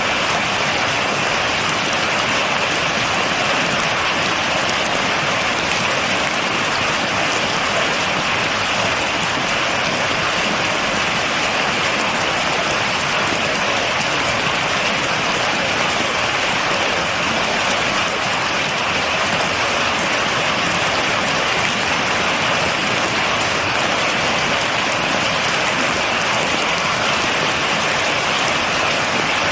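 Steady, heavy rain falling and pattering on surfaces, with no thunder.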